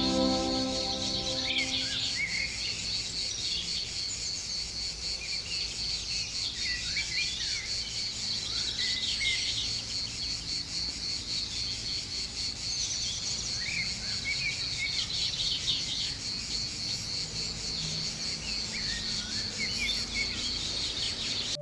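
Steady, high-pitched insect chorus with songbirds chirping over it.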